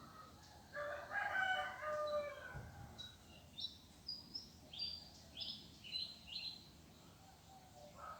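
A rooster crowing once, a long call lasting about two seconds, then a small bird giving a string of short, high chirps.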